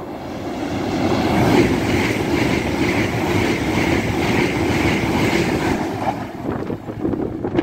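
LNER Azuma (Hitachi Class 800-series) express train passing at high speed. The rush of wheels on rail and air swells over the first second or so as it approaches, then holds loud and steady as the coaches go by close, with a regular beat from the wheels.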